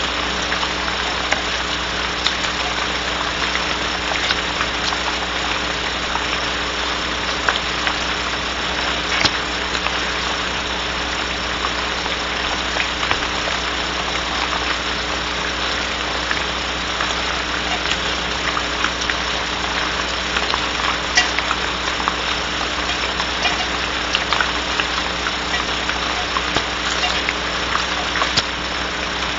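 Rain falling on a barn owl nest box: a steady hiss full of small ticks, over a steady electrical hum from the camera's microphone.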